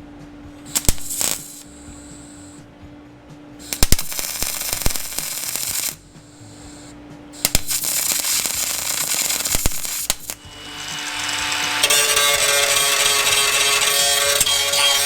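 Metalworking tool cutting and shaping sheet steel for a replacement sill panel, in short bursts, then a steadier run with a whine from about eleven seconds in.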